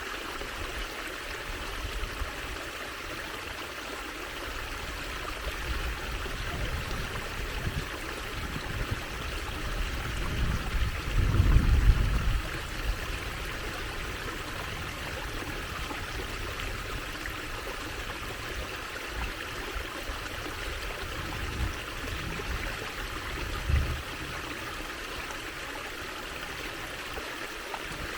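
Water trickling and babbling in a steady, even stream. A low rumble swells up about halfway through, and a short low thump comes near the end.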